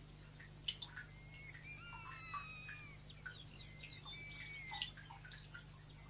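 Several wild birds calling together: a scatter of short chirps and clicks mixed with a few drawn-out whistled notes, some sliding gently downward. Faint throughout.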